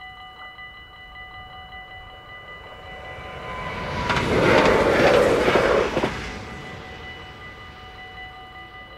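Dutch level-crossing bell ringing in quick, even strokes while a train passes over the crossing, the train's noise building to a peak about four seconds in and dying away by about seven seconds.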